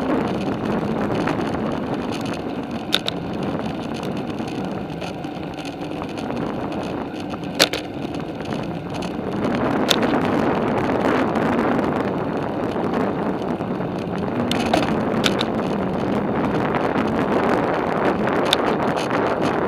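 Bicycle ride on a paved trail: steady rolling and wind noise on the microphone, with a few sharp clicks.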